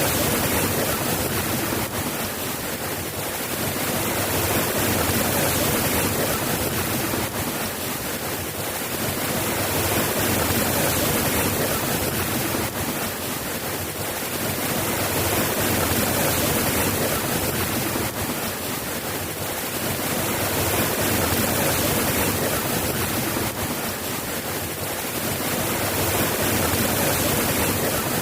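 Steady rain falling as a dense, even hiss, swelling and easing gently every five or six seconds.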